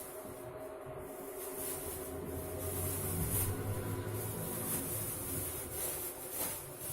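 A small plastic bag rustling and crinkling steadily as socks are handled and packed into it.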